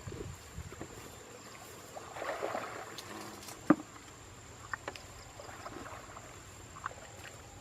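Water splashing and sloshing, with a rough burst of splashing about two seconds in, and a few sharp knocks, the loudest a single knock about halfway through.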